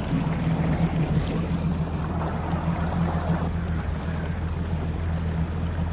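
Yamaha GP1800R SVHO jet ski's supercharged engine running at a steady speed, a low, even drone, with the rush of water beside it.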